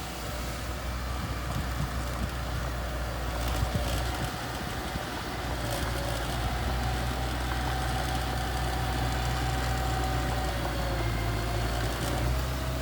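Small bulldozer's diesel engine running steadily, a little louder from about six seconds in, with a faint whine over it and a few light clanks.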